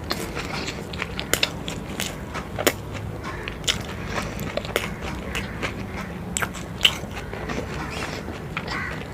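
A person eating close to the microphone: biting and chewing with many irregular small sharp clicks and smacks, the sharpest a little before the end.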